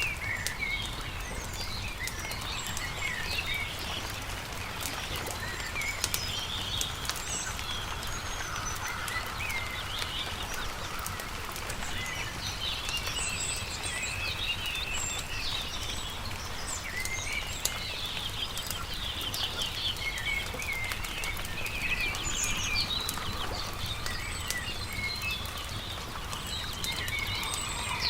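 Several birds chirping and trilling over the pops and crackles of a wood campfire, with a steady low rumble underneath.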